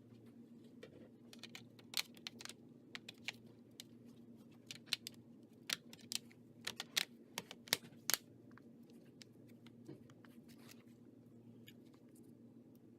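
Irregular light clicks and taps of hands working on a laptop, bunched together for the first two-thirds and then only now and then, over a faint steady hum.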